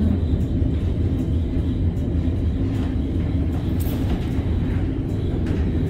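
Vintage tram rolling along its rails, a steady low rumble with a few faint clicks.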